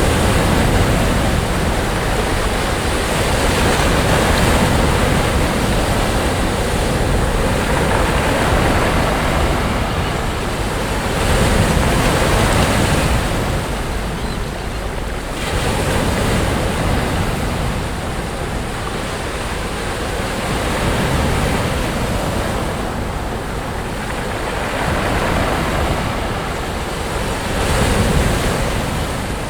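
Sea waves breaking and washing up the shore, the surf swelling and easing every few seconds, with wind rumbling on the microphone.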